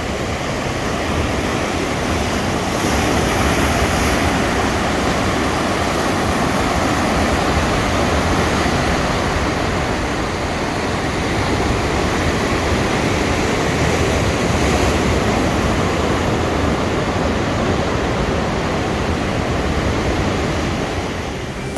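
Heavy ocean swell surging and breaking on the rocks: a continuous wash of surf that swells and eases slightly.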